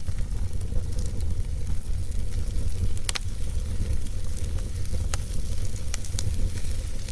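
Wood fire burning in a fireplace: a steady low rumble with crackling and scattered sharp pops, the loudest pop about three seconds in.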